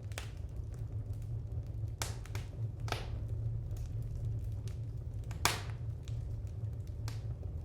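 Wood fire crackling in a fireplace: irregular sharp pops and snaps over a steady low rumble, with the loudest pop about five and a half seconds in.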